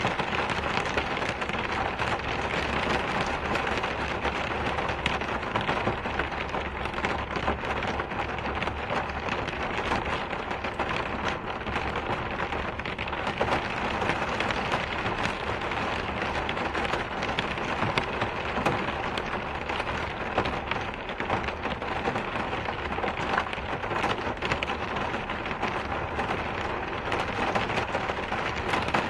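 Steady rain falling, a dense even hiss full of fine drop patter, over a steady low rumble.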